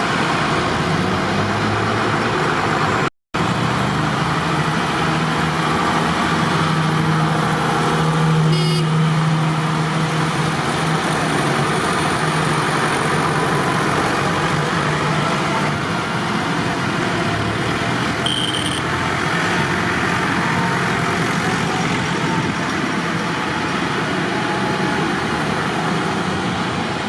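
Tractor engine running steadily under way, a low hum over road and running noise. The sound cuts out for a split second about three seconds in.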